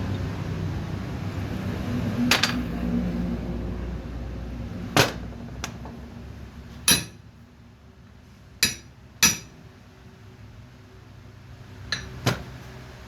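Hammer blows on metal: about eight sharp, irregularly spaced strikes, a few ringing briefly. A low hum underneath fades out over the first few seconds.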